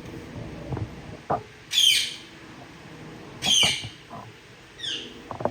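Ringneck parrot calling three times, each call a quick run of high falling notes; the third is shorter and quieter. A few light knocks come between the calls.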